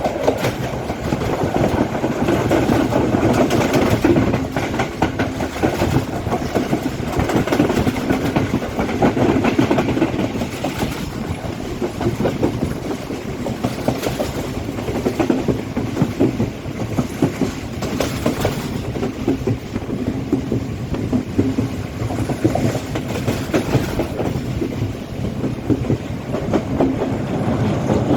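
Express train hauled by a Class M6 diesel locomotive running at speed: a steady rumble with the wheels clacking over the rail joints.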